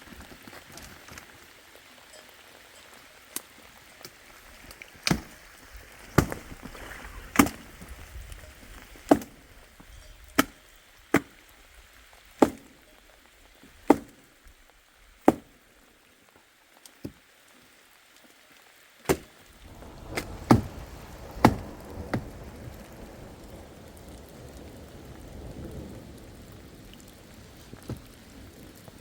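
Sharp chopping strikes, roughly one every second or so, that stop about three-quarters of the way through, over a steady hiss of rain.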